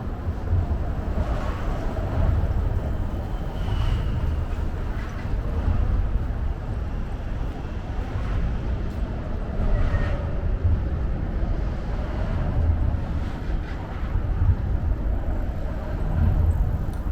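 Outdoor city ambience dominated by a steady, uneven low rumble of road traffic, with faint scattered higher sounds over it.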